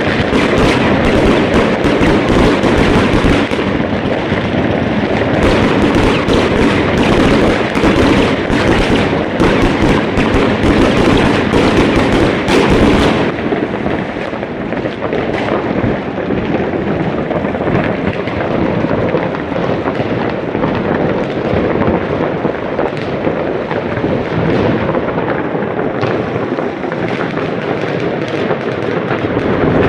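Dense, continuous fireworks: a rapid, overlapping barrage of bangs and crackling. It is thickest for roughly the first thirteen seconds, then thins a little while still going on.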